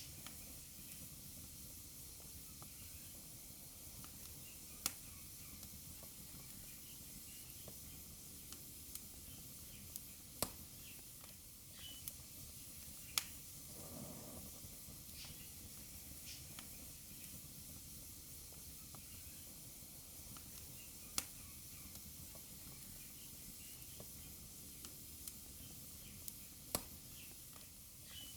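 Wood fire burning in a fireplace: a faint steady hiss with sharp crackles and pops at irregular moments, a few of them much louder than the rest.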